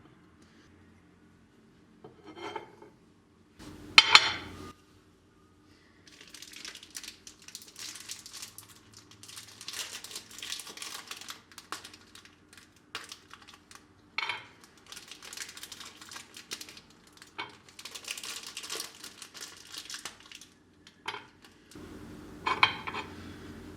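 Small objects being handled: a few sharp clinks and knocks, with rustling and crinkling from about six seconds in until near the end.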